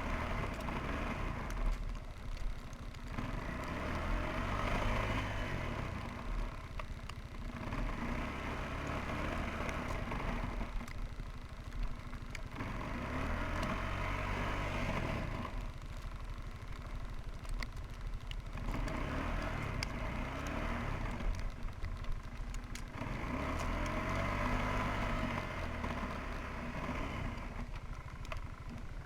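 Suzuki QuadRunner 300 ATV engine revving up and easing off over and over, a swell about every four seconds, as it churns through deep snow with little traction.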